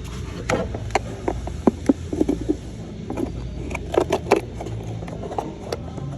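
Irregular sharp clicks and knocks, several close together in short clusters, over a steady low hum.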